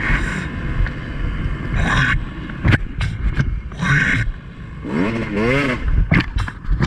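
Two-stroke Beta dirt bike engine running on a trail ride, revving in short throttle blips, its pitch rising and falling twice near the end.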